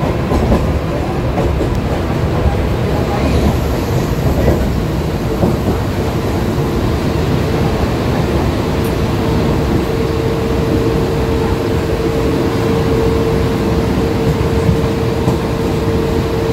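Mumbai EMU suburban electric train running at speed, heard from inside the coach by an open window: a steady rumble and clatter of the wheels on the track. About halfway through, a steady tone joins in and holds.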